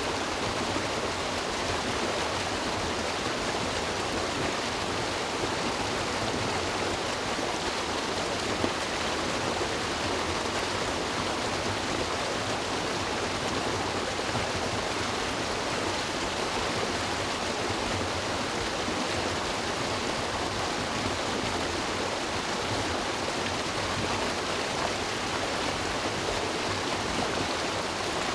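River water rushing steadily over rocks, a continuous even wash with no change.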